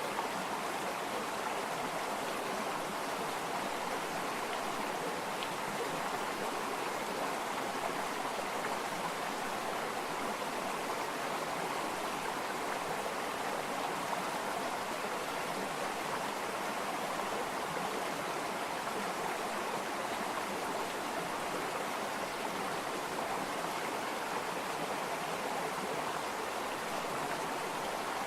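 Running water flowing steadily, an even rush with no breaks or changes.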